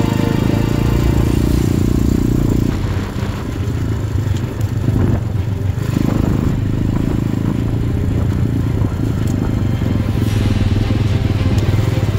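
Enduro motorcycle engine running under way, with background music laid over it.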